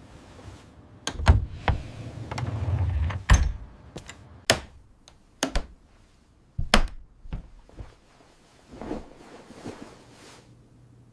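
A series of irregular sharp knocks and thuds, a dozen or so spread unevenly, like things being handled and set down or a door moving.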